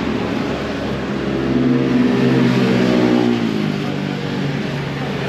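Motorbike engine pulling away, its pitch rising for a couple of seconds before dropping back as the rider eases off, with wind and road noise throughout.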